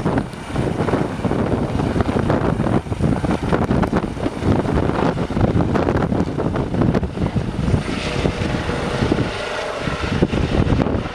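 Eurocopter EC135 helicopter running, with its rotor and turbine engines making a steady, loud, fluttering noise.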